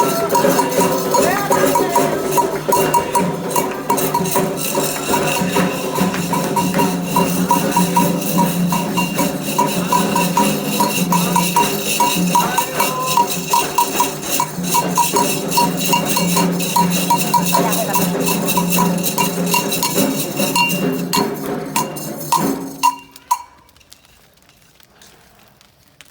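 Candomblé ritual music: a metal bell, typical of the agogô, struck in a fast steady rhythm with hand percussion and sustained group singing. It all stops abruptly about 23 seconds in, leaving only faint background sound.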